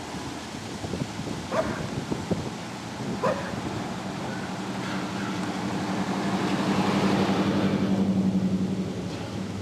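A dog barks twice, then a motor vehicle passes: a steady engine hum and a rising haze of noise swell, peak about eight seconds in, and fade.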